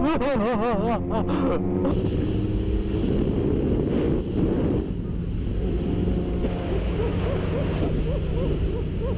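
Motorcycle engine running under heavy wind noise on the microphone. In the first two seconds a wavering, warbling tone with several overtones sounds over it.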